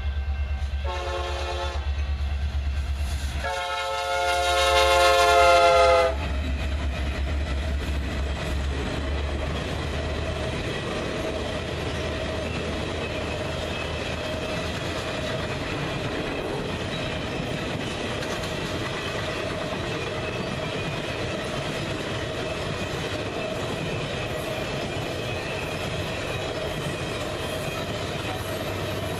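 Diesel locomotive air horn of the Ringling Bros. circus train: one blast ending as it begins, a short blast about a second in, and a long, loudest blast from about four to six seconds in. Then the train's passenger cars roll past with a steady rumble and clatter of wheels on rail.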